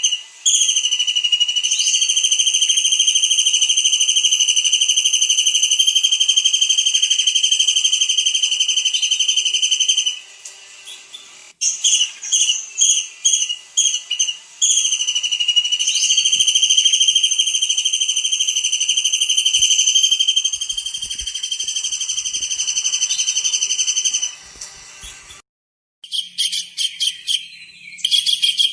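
Kingfisher (tengkek udang) calling hard: a run of shrill, quickly repeated notes that runs into a long, unbroken high trill of about ten seconds. This happens twice, and after a short break quick repeated notes start again near the end.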